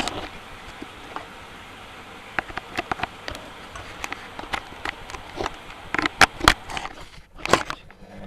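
Washing machine starting its wash cycle: a steady hiss with many irregular clicks and knocks, the hiss cutting out about seven seconds in.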